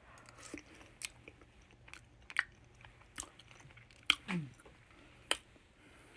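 A person chewing a mouthful of rice to taste whether it is cooked through, with a few sharp clicks scattered among the soft chewing.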